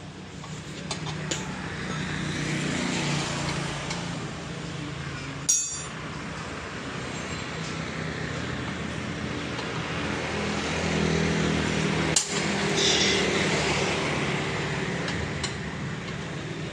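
Steady engine and road noise that swells twice, with two sharp metallic clinks about five and twelve seconds in as a wrench works at the scooter's exhaust mounting bolts.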